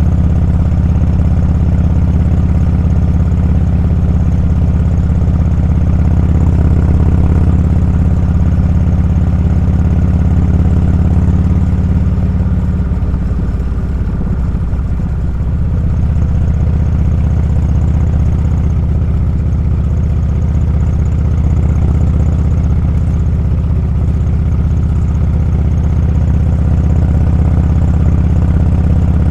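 Motorcycle engine running steadily while riding. About halfway through, the engine note wavers and changes pitch for a couple of seconds, then settles into a steady note again.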